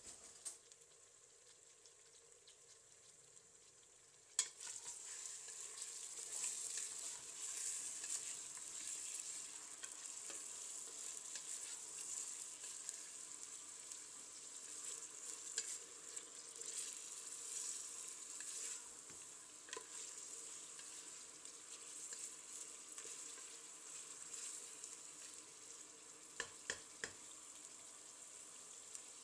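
Food sizzling as it fries in hot oil in a cooking pot. The sizzle starts suddenly about four seconds in with a sharp knock and then runs on steadily, with a few small clicks near the end.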